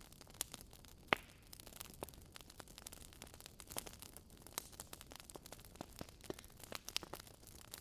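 Burning wood logs in a fireplace crackling: irregular sharp pops and snaps over a soft hiss, with one louder pop about a second in.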